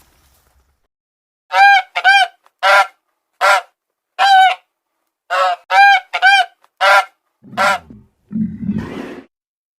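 An animal calling: a string of about eleven short, clear calls in quick runs, then a lower, rougher grunting sound twice near the end.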